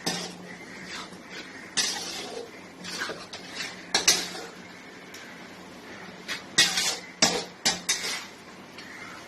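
Metal spoon scraping and clinking against a cooking pan as chicken masala is stirred, in a few short bouts, over a steady low hum.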